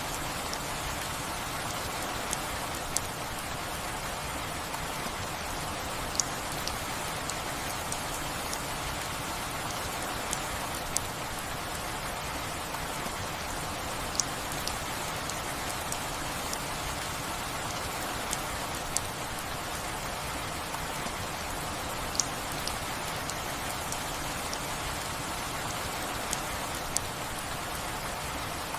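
Steady rain falling, with sharp single drips or drop hits scattered every few seconds over the constant hiss.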